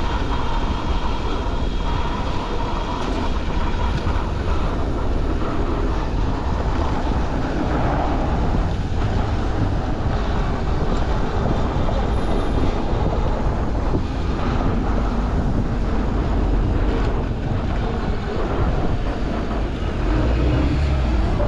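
Downtown street traffic heard from a moving bicycle, dominated by the steady running noise of a streetcar on its rails, with wind rumble on the microphone.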